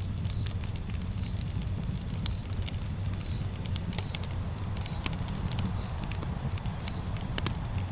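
Campfire burning: sharp crackles and pops of burning wood over a steady low rumble, with a short high chirp repeating about once a second.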